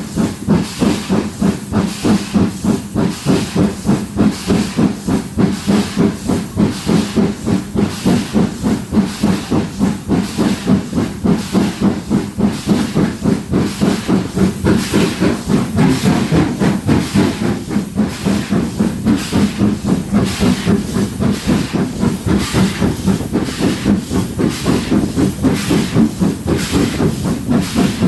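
Four-cylinder GWR Castle-class steam locomotive 4079 Pendennis Castle working hard, its exhaust beats coming in a steady, even rhythm with a hiss of steam, as it climbs the gradient out of Alton.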